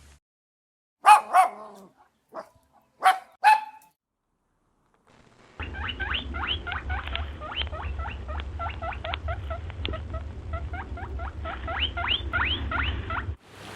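Animal calls: a few loud single calls in the first few seconds, then after a pause a long run of quick, short high calls over a steady low hum, which stops shortly before the end.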